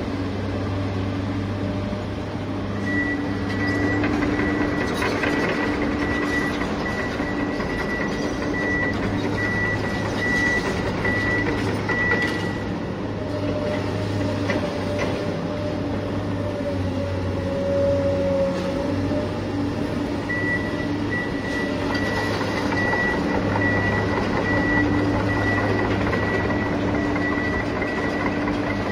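Radio-controlled toy excavator's electric motors running steadily as the arm and bucket work. A thin high whine joins a few seconds in, drops out about halfway, and comes back for the last third.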